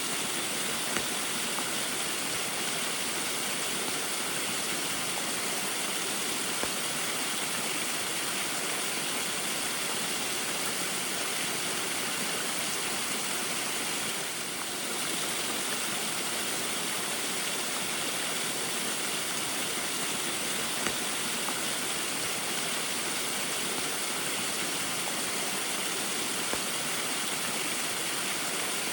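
Small waterfall in the rain: a steady, even rush of falling and splashing water, easing for a moment about halfway through.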